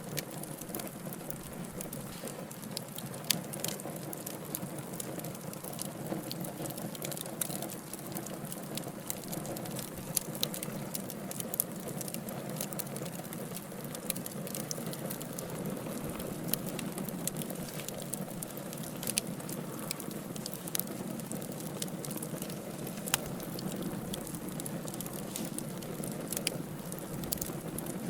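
Wood fire burning in a fireplace: a steady low hiss with irregular crackling and occasional sharp pops from the burning logs.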